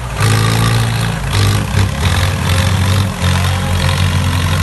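Mahindra tractor's diesel engine running loudly, its pitch stepping up and down a few times as the throttle changes.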